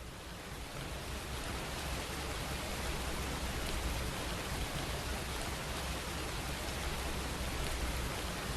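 Steady rain falling, an even hiss that swells in over the first second or two.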